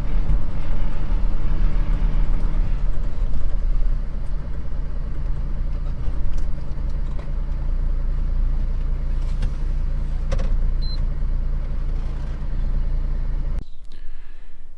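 Unimog engine running steadily, its exhaust freshly bodged with a temporary piece of pipe. The engine sound cuts off suddenly near the end.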